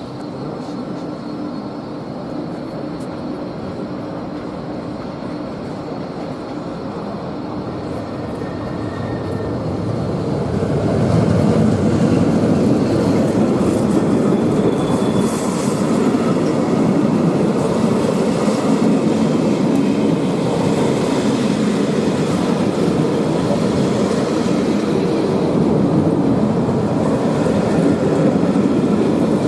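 A train running along the station tracks, its rumble of wheels and running gear growing louder about ten seconds in and then staying loud and steady.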